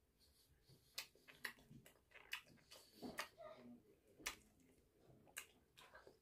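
Faint close-up eating sounds: chewing and wet mouth clicks, about half a dozen sharp smacks spread over a few seconds.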